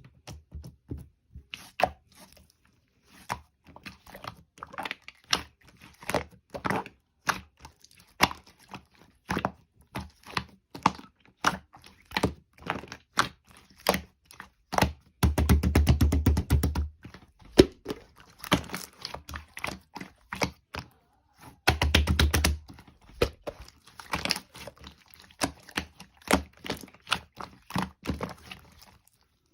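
Slime being squeezed and poked by hand, giving irregular sticky clicks and pops. Twice, about halfway and about three quarters through, it breaks into a second or two of fast crackling.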